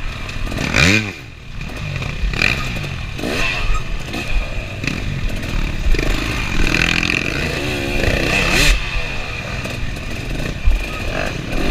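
KTM 300 two-stroke dirt bike engine revving up and down hard as it is ridden through a rough trail section, with a few sharp knocks from the bike over the terrain.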